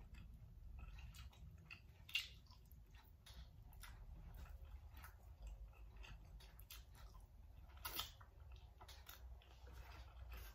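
A person chewing a mouthful of noodles close up, a quiet, noisy run of wet smacks and clicks, with two sharper, louder clicks: one about two seconds in and another about three quarters of the way through.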